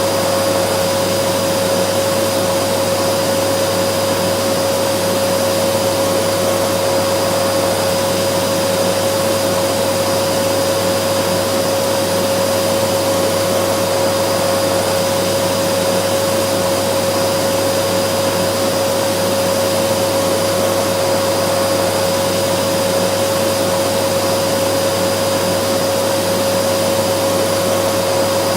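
Vacuum cleaner running steadily with a constant whine, no change in pitch or level.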